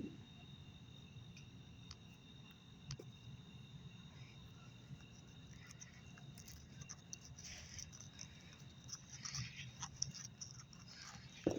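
A steady insect chorus, trilling without a break, with a few faint clicks and knocks scattered through it.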